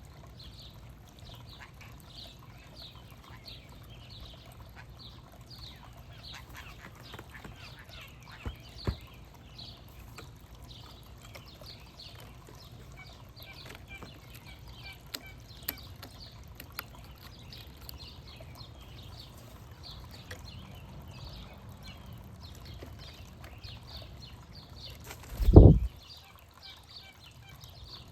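Backyard birds chirping, a dense run of short, high, repeated chirps throughout, with a few sharp clicks. Near the end comes one loud, low thump lasting about half a second.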